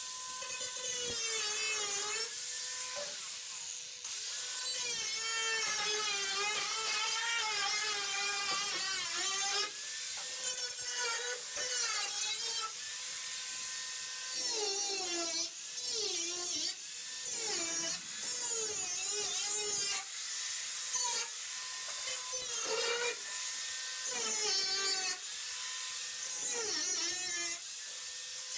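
Handheld power tool running almost continuously, its motor pitch wavering and dipping each time it bites into the sheet-metal nose panel of a VW bus, with short breaks as it is eased off and back on.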